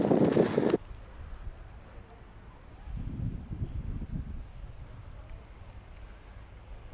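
A louder rushing noise cuts off suddenly under a second in. After that, a small bird's faint, high, thin chirps come a handful of times, short and scattered, over a low background rumble.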